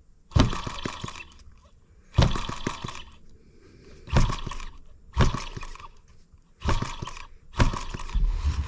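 M25 sideshaft engine being started and firing unevenly: six sharp bursts at irregular gaps of about one to two seconds, each dying away quickly, without settling into a steady run.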